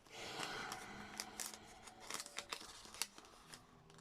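Paper and craft supplies being handled and rummaged through: a rustle, then a string of light clicks and ticks.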